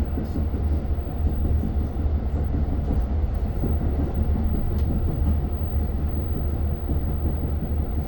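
Steady low rumble of a Long Island Rail Road train, heard from inside a passenger car, with a few faint clicks.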